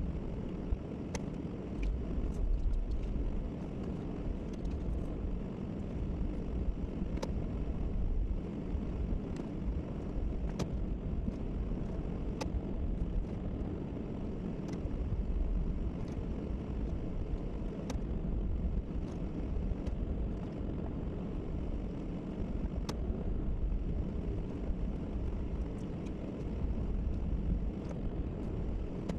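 Snowplow pickup truck running steadily, a low engine and road rumble, with scattered faint sharp clicks and ticks every second or two.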